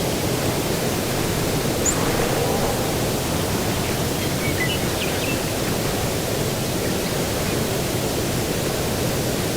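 Steady, even rushing outdoor ambience, strongest in the low range, with a few faint, short bird chirps about four to five seconds in.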